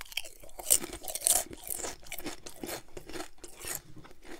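Close-miked crunching and chewing of a potato chip: a few loud, sharp crunches in the first second and a half, then quicker, softer chewing crunches.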